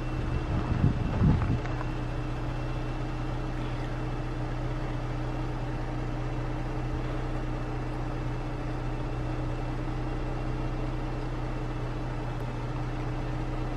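Vehicle engine idling steadily, a constant hum, with a few low thumps about a second in.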